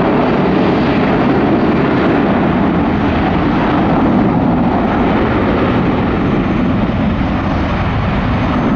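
Boeing 757-300 twin-engine jet airliner departing at takeoff power: a loud, steady jet engine noise that eases slightly near the end.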